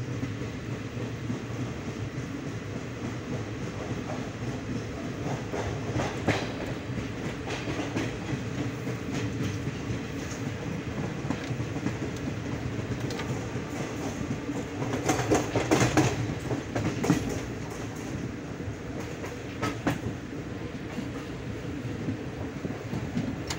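Express train moving off, heard from inside its passenger coach: a steady rumble of wheels on the track with occasional sharp clacks. The clacks bunch into a louder stretch about fifteen to seventeen seconds in.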